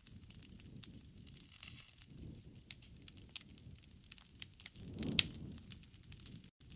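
Wood fire burning, with irregular crackles and sharp pops over the low rush of the flames. A louder flare with a sharp pop comes about five seconds in, and the sound drops out for an instant near the end.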